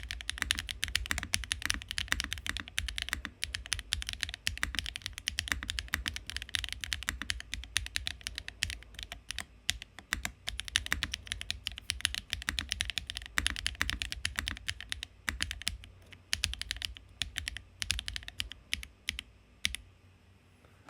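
Typing sound test on a Neo80 aluminium mechanical keyboard built with HMX Lotus switches, a carbon fiber plate and brass pillar sandwich mount, and MV Expo keycaps: a fast, steady run of loud, bright, marbly clacks, thinning to scattered keystrokes near the end.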